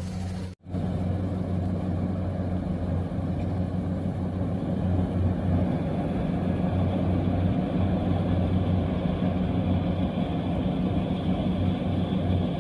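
Rice combine harvester running steadily, its engine giving a continuous low drone. The sound cuts out briefly about half a second in, then resumes unchanged.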